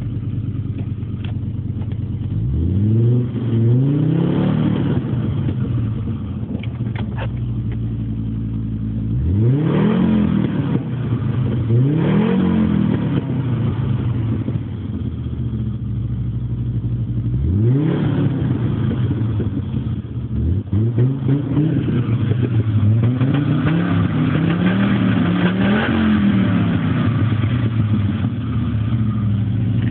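Audi GT5E's inline five-cylinder engine, with its final exhaust section removed, idling and being revved repeatedly. There are a few long pulls that rise and fall back to idle in the first half, then a run of quicker blips near the end.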